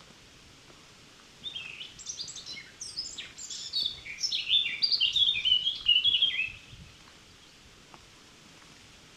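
A songbird singing one song of rapid, varied high notes lasting about five seconds, starting a second and a half in and growing louder before it stops.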